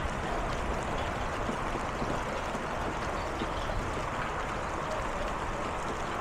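Rain from a hailstorm pouring down in a steady, even hiss, with a low rumble underneath.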